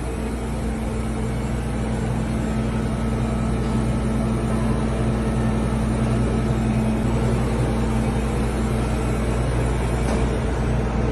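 Scania diesel engine with XPI common-rail injection idling steadily.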